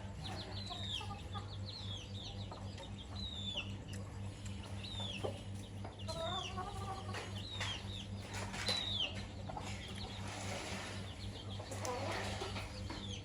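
Chicks peeping with short, high calls that fall in pitch, repeated many times, while a hen clucks lower now and then.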